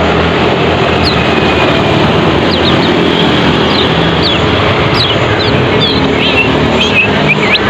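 Lemon-bellied white-eyes (kecial kuning) calling in short, high chirps that drop in pitch, scattered at first and coming more thickly near the end. They sound over a loud, steady hiss-like background noise.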